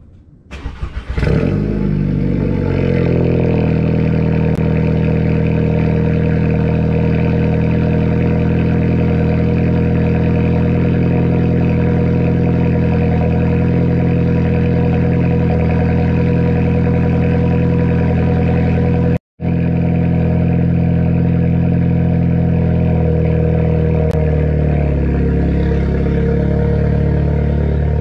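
Tuned VW GTI's turbocharged four-cylinder starting up through its custom exhaust with Tomei muffler and catless downpipe, catching with a few stutters about half a second in and then settling into a steady idle. The sound cuts out for an instant about two-thirds through, and the idle note shifts slightly near the end.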